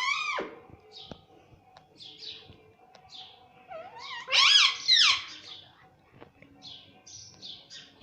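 Indian ringneck parrot vocalizing: a loud call at the start that slides steeply down in pitch, then a louder drawn-out call about four seconds in that rises and falls, with soft high chirps scattered between.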